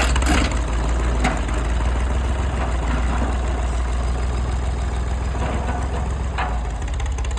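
A mid-1960s tractor's engine running steadily at low speed, with a few sharp knocks, about half a second in, just over a second in, and near the end.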